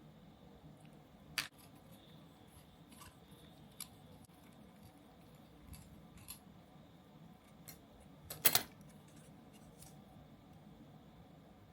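Small hand tools and plastic kit parts being handled and snipped, giving scattered sharp clicks. One click comes about a second and a half in, faint ticks follow, and the loudest quick cluster of clicks comes about eight and a half seconds in.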